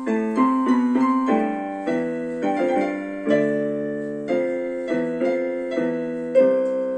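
Keyboard played in a piano sound: a simple slow melody over lower held notes, each note struck and then fading.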